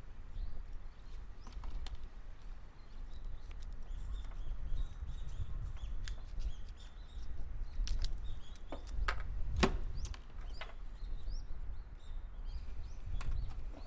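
Scattered clicks and taps from hands handling car wiring and tools, over a low rumble, with faint short chirps in the background; the sharpest clicks come in a cluster a little past the middle.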